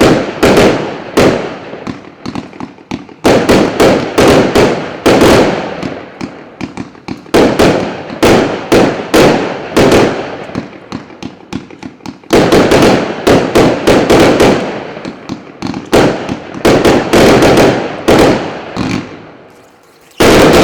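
A consumer firework battery of 130 0.8-inch shots firing. Rapid volleys of shots and bursting pops come in groups every four or five seconds, each group tailing off, and a loud new volley starts right at the end.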